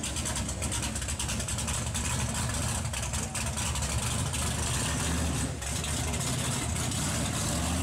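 A big off-road mud truck's engine running steadily with a low rumble, a fast rattle laid over it.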